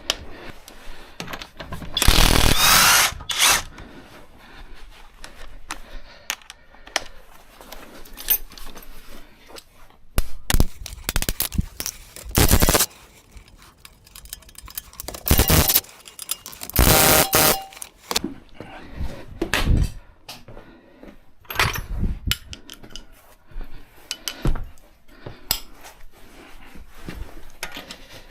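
A power tool run in short bursts, about half a dozen times, each lasting up to a second, with short clicks and clanks of tools between them.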